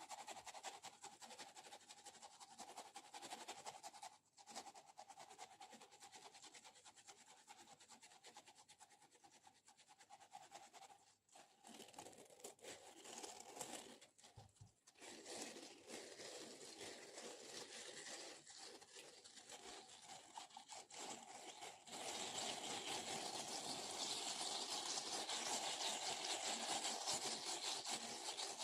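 Close-miked ASMR object sounds: continuous fine scratching and rubbing with a sticky, tearing crackle. There are brief pauses near 4, 11 and 15 seconds, and the sound grows louder about 22 seconds in.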